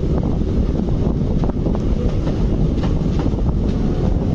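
An ICF passenger coach of an express train running along the track, heard from its open doorway: a steady loud rumble of wheels on rails with light clicks and rattles through it, and wind buffeting the microphone.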